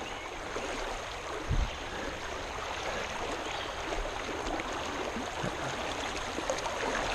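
Creek water rushing over shallow rapids, a steady even rush, with one low thump about one and a half seconds in.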